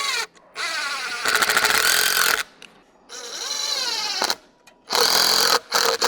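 Cordless power driver sinking 2.5-inch decking screws through a cedar nesting box into a tree trunk. The motor whines in about five separate runs, its pitch sagging and rising as the screws bite. The longest, loudest run is about a second in.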